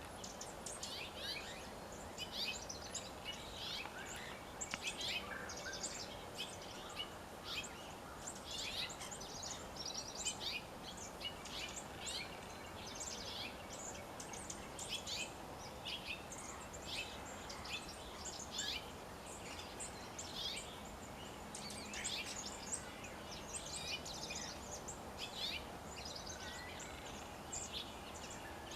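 Wild birds chirping and calling, many short high chirps overlapping throughout, over a steady outdoor background hiss.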